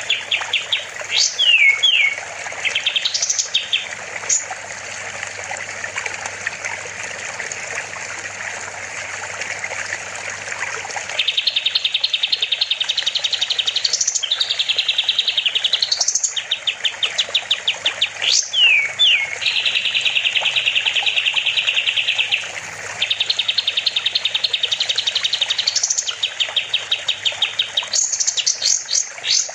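Kapas tembak songbird singing in loud, rapid rattling trills of evenly repeated high notes, broken by quick rising and falling whistled sweeps. A steady hiss of trickling water sounds underneath, and from about eleven seconds in the trills come almost without a break.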